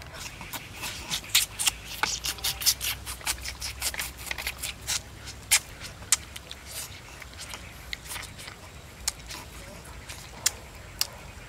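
A man eating fried eel and greens by hand: close-up chewing and lip-smacking, a quick, irregular run of wet clicks that thins out over the second half.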